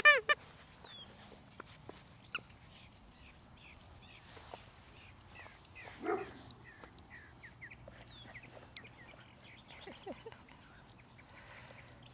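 Five-week-old puppies at play: a short, loud puppy yelp right at the start and another smaller puppy sound about six seconds in. Birds chirp faintly in the background throughout.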